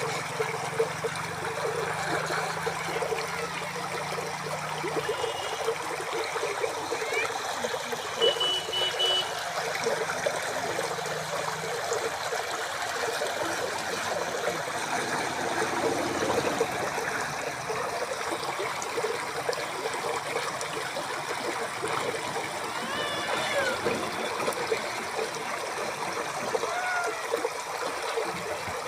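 Running water trickling and burbling steadily, as in a small stream or channel.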